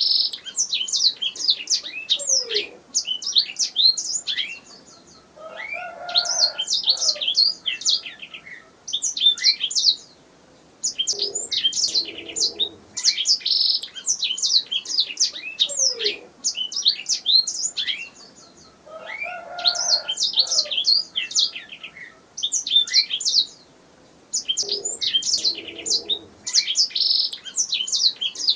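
Domestic canary singing: long phrases of rapid high chirps and trills, broken by short pauses every few seconds.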